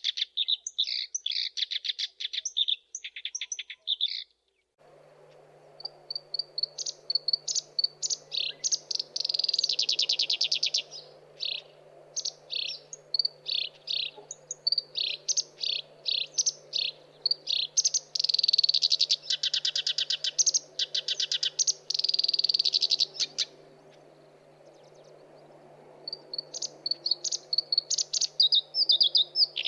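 Black-browed reed warbler singing: a fast, scratchy chatter of repeated high notes broken up by rapid buzzy trills. There is a brief silence about four seconds in and a longer pause near the end, with a faint steady hum underneath after the first silence.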